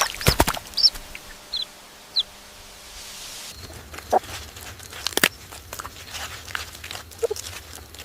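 Chickens: a few short, high chirps in the first seconds, then scattered short clucks and knocks over a low steady hum.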